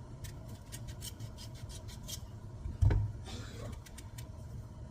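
Knife cutting pumpkin on a cutting board: rasping cuts and many short sharp clicks, with one heavier thud about three seconds in.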